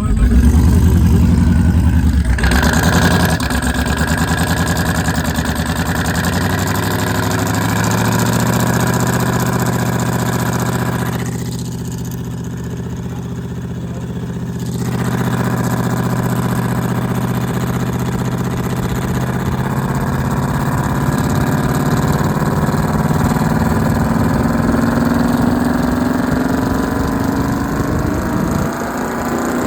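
Twin-turbo LS V8 engine running loud in the first couple of seconds, as when it fires up or is revved, then settling to a steady idle. Later its pitch climbs slowly as the engine speed rises.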